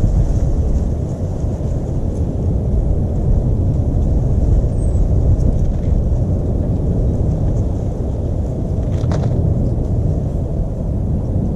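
A steady, loud low rumble, with one sharp click about nine seconds in and a faint, short, high falling chirp near five seconds.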